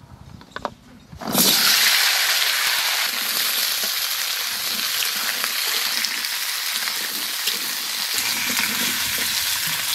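Cut radish pieces hit hot mustard oil in a kadai about a second in and start sizzling loudly, then keep frying steadily while they are turned with a metal spatula.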